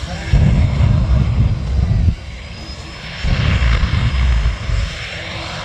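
Twin jet engines of a jet-powered car running with a steady rushing roar, with two heavy, deep rumbling surges, each about a second and a half long.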